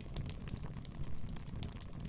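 Wood fire burning in a fireplace: irregular sharp crackles and snaps over a low, steady rumble of the flames.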